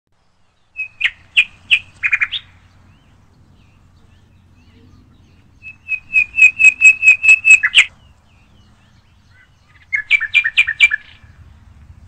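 A bird calling in three bursts of quick, repeated, clear notes, each burst lasting one to two seconds with a few seconds' pause between them.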